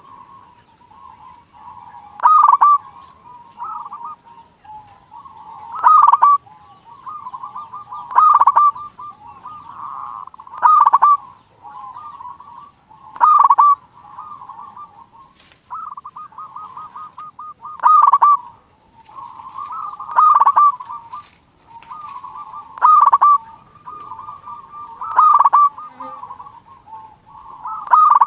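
Zebra dove (perkutut) cooing in full song. Loud call phrases come about every two to three seconds, with softer, fast rolling coos filling the gaps between them.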